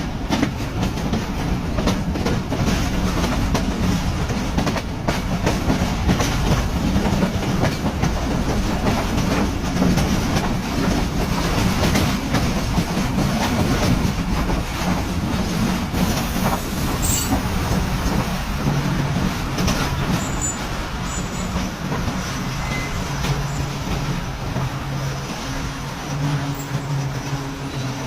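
Express passenger train rolling through a station, its wheels clicking over rail joints, with a steady low hum underneath that settles lower and steadier near the end.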